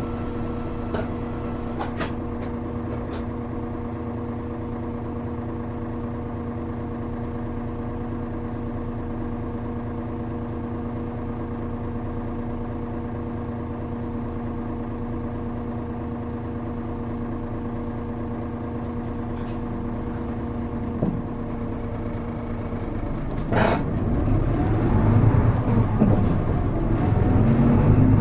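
Hino Rainbow HR city bus's diesel engine heard from inside the cabin, running with a steady, even hum for most of the time. Near the end, after a brief sharp noise, it grows louder with rising, shifting pitch as the bus accelerates.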